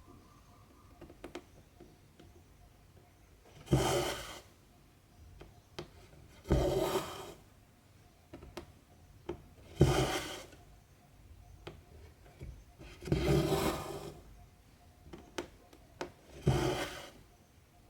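Cotton embroidery thread drawn through 14-count cross-stitch fabric, a rubbing swish about every three seconds, five times, with faint ticks of the needle between the pulls.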